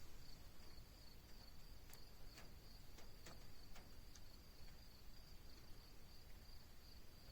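Near silence with a faint, steady high-pitched insect trill running throughout, and a few faint ticks around the middle.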